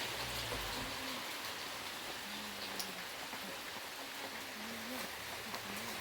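Steady rain falling, an even hiss of rain on surfaces with a few sharper drop ticks.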